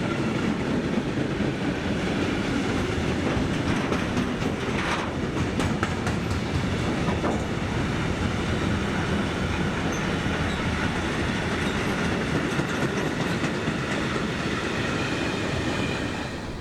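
Freight train wagons rolling past over points, with steady wheel rumble, clattering knocks as the wheels cross the rail joints and switches, and a faint high squeal from the wheels.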